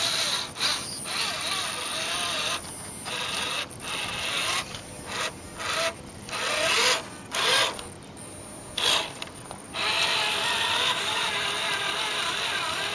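Traxxas Titan 550 12-turn brushed electric motor and RC4WD 4:1 transmission in an RC crawler, whining with gear noise in a string of short throttle bursts, its pitch rising and falling. About ten seconds in it settles into steady running.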